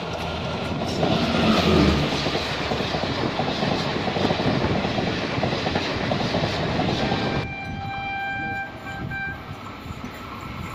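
Train wheels clattering and air rushing at an open coach door as an overtaking Rajdhani Express runs past on the next track, with a low swell about a second in as its locomotive draws level. About two-thirds through, the sound cuts abruptly to quieter running noise, with a steady, horn-like tone for a couple of seconds.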